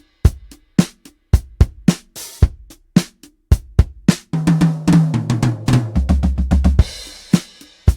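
Sampled acoustic drum kit from the Toontrack EZdrummer 3 plugin playing a groove of kick and snare hits. From about four seconds in, a fill runs down the toms, falling in pitch, and lands on a crash cymbal near the end.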